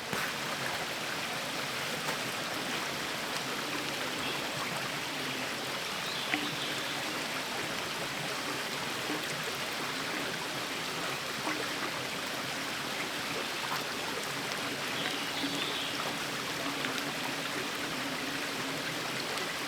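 River running high after a night of heavy rain: a steady rush of flowing water.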